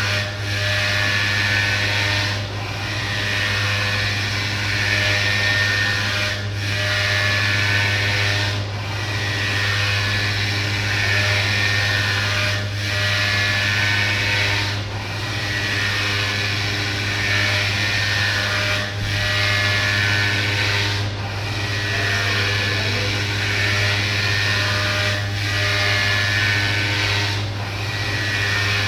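CNC milling machine cutting a prosthetic part: steady spindle and cutting noise over a low motor hum, with brief dips in the cutting sound recurring every few seconds.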